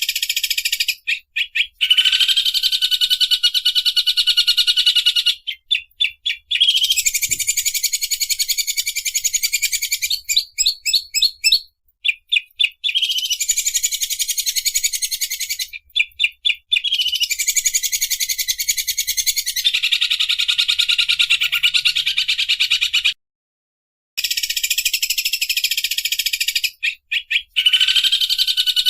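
A bird's 'sewing machine' call: long, very rapid rattling trills of three to four seconds each, separated by short stuttering bursts, repeated over and over, with one brief full stop about three quarters of the way through. It is a masteran recording used to teach a green leafbird this rough, fast-repeating song.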